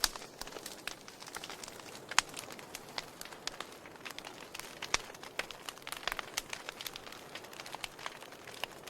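Wood fire in a fireplace crackling, with a scatter of sharp pops over a soft hiss, a few louder snaps about two and five seconds in.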